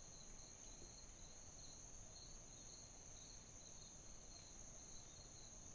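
Faint, steady chorus of crickets: a continuous high trill with a softer, pulsing trill below it.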